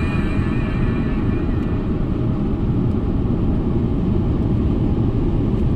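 A car driving along: steady low rumble of road and engine noise.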